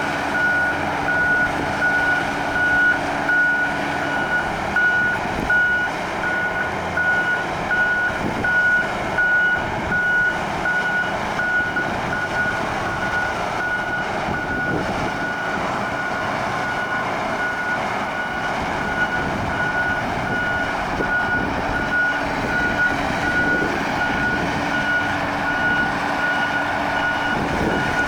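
Caterpillar 6015B hydraulic mining shovel running, its diesel engine working under a steady rapid beeping alarm from the machine, repeating evenly at one pitch.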